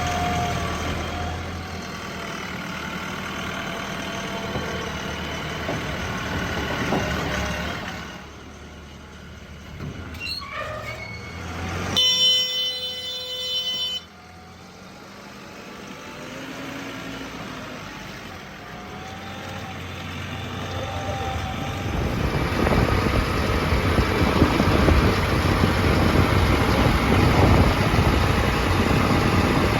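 Diesel engines of a JCB 3DX backhoe loader and farm tractors running while loading mud, in several cut-together stretches. About twelve seconds in, a loud steady horn-like tone sounds for about two seconds and cuts off sharply. The engines are loudest from about two-thirds of the way through.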